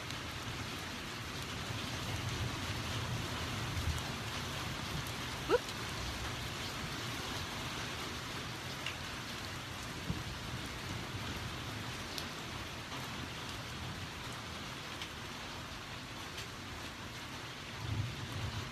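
Steady heavy rain falling, with low rumbles of thunder swelling in the first few seconds and again near the end. A single short sharp click about five and a half seconds in.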